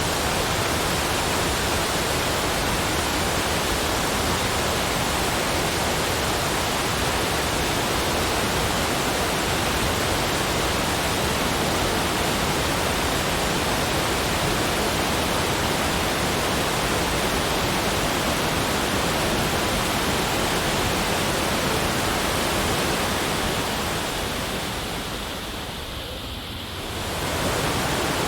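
Steady, even rush of water. The level dips about 24 seconds in and swells back a few seconds later.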